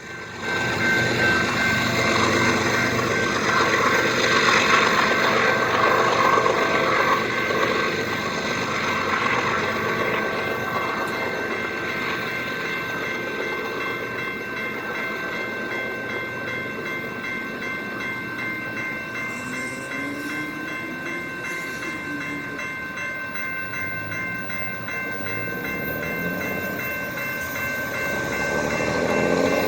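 BNSF freight train rolling past at track side: a steady rumble of cars on the rails, with a few steady high ringing tones over it.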